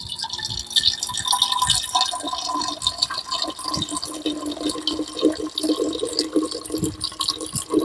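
Thin, slow stream of filtered lake water trickling from a Sawyer Mini squeeze filter into a container. The flow is weak because the filter is still new.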